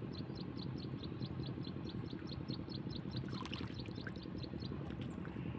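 Water rushing steadily, with a short high chirp repeating about four times a second and a thin steady high whine.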